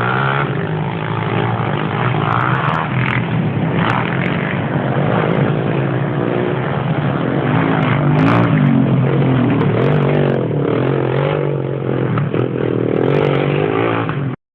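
Motocross dirt bike engines running on the track, the pitch rising and falling as the throttle is worked. The sound cuts off suddenly near the end.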